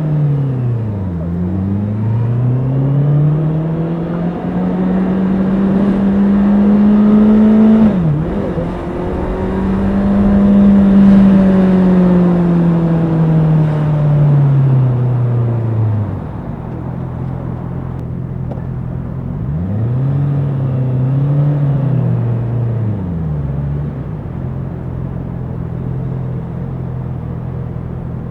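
Honda CBR650R's inline-four engine revving up and falling back in long, smooth sweeps, then settling to a steady idle, with one more short rise in revs before idling again.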